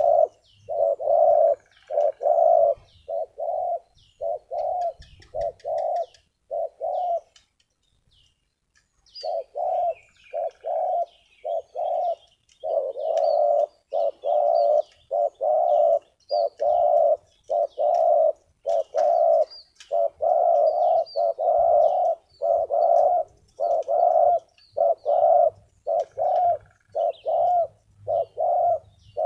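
Spotted dove cooing over and over in a steady string of low coo notes, breaking off for about two seconds around seven seconds in, then going on. Small birds chirp faintly in the background.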